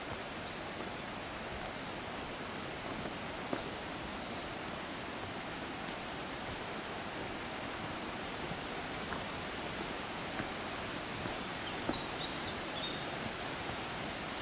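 Steady rush of flowing water in the open air. A bird gives short chirps twice, once a few seconds in and again near the end.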